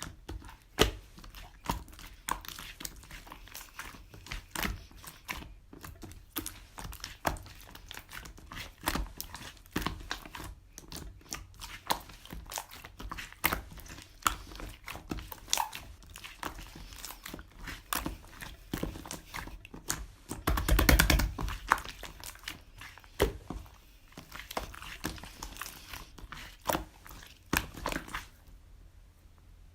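Irregular crisp crunches and clicks, with a denser stretch of crackling about twenty seconds in.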